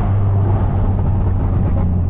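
BMW S55 twin-turbo straight-six in an F80 M3, heard through catless downpipes and an open valved axle-back exhaust, droning steadily at low revs while the car cruises off the throttle.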